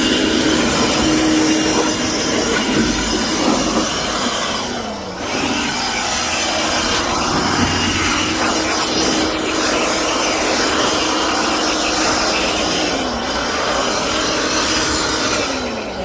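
Handheld blower running at full speed, blowing built-up dirt out of a walk-in cooler condenser. Its whine falls and eases off briefly about five seconds in, comes back up, and winds down again near the end.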